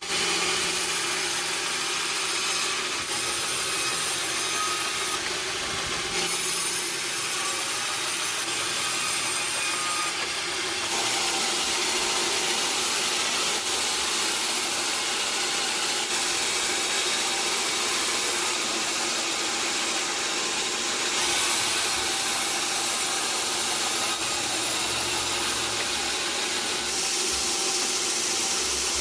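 Sawmill saw cutting through a log: a steady, dense sawing noise that holds on without a break.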